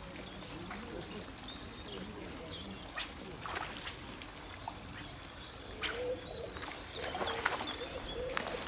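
Birds chirping, short high calls scattered throughout, with a few sharp clicks.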